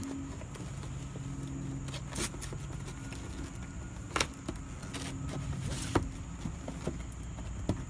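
Toy packaging handled and pulled at by hand without scissors: a few sharp clicks and snaps, with handling noise between them, over a steady low hum.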